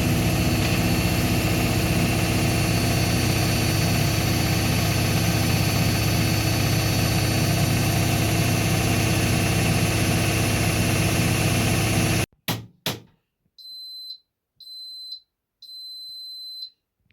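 Indesit MTSWA 61053 W EE front-loading washing machine running steadily in its final 1000 rpm spin, which cuts off abruptly about twelve seconds in. Two clicks follow, then three high-pitched beeps, the last one longer: the machine's end-of-programme signal.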